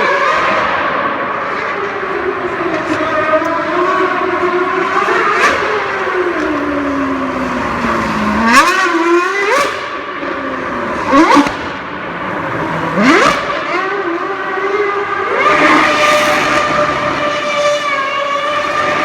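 2013 Mercedes-AMG Formula One car's 2.4-litre V8 engine being revved. Its note wanders and sinks, then comes a quick series of sharp blips of the throttle around the middle, and it is held at a steady high pitch for the last few seconds.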